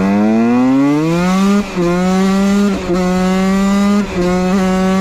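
Husqvarna WR 125 two-stroke single-cylinder engine at full throttle: the revs climb steeply for about a second and a half, then hold high and steady, broken off briefly three times.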